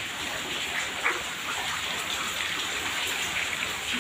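Steady hiss of heavy rain, with a brief louder sound about a second in.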